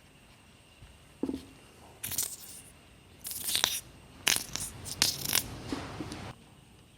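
A series of metallic clinks and scraping rustles from tools and parts being handled, several separate sounds over about five seconds, one early clink ringing briefly.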